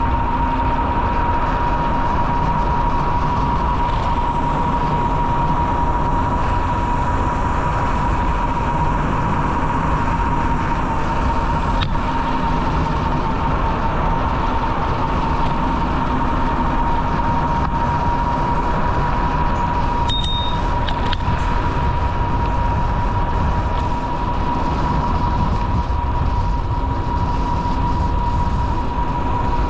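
Steady rumbling noise of a bicycle riding along a trail, with a constant whine throughout and a short, high ring about two-thirds of the way in.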